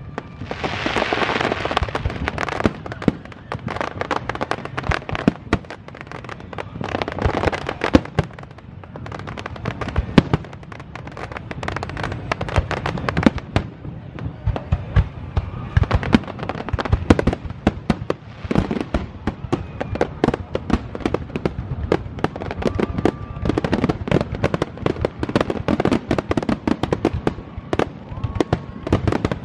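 Aerial fireworks display: a dense, continuous run of booms and sharp crackling reports with rapid popping throughout, from a show in its intense stretch.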